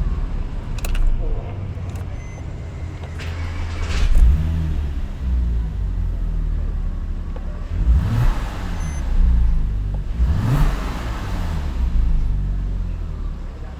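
Porsche Cayman 987's 2.7-litre flat-six engine running steadily at low revs, with two brief rises in revs about two-thirds of the way through.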